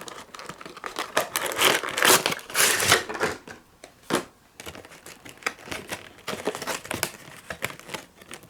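Model-train packaging being handled and opened: irregular crinkling and rustling with many small clicks and taps, busiest in the first few seconds.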